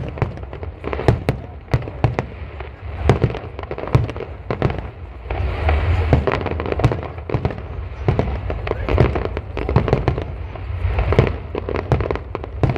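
Display fireworks: aerial shells bursting one after another in a rapid, uneven string of bangs, thickening into a dense run of overlapping bursts from about halfway through.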